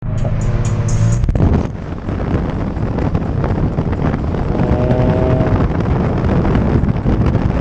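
Kia Forte Koup's exhaust on a drive-by: a steady engine note for about a second, then a sudden loud, rough surge as the car accelerates past, which stays loud through the rest.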